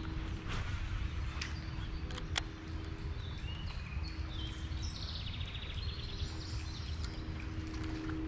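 Birds chirping, with a rapid trill in the middle of the stretch, over a steady low outdoor rumble; a few sharp clicks come in the first couple of seconds.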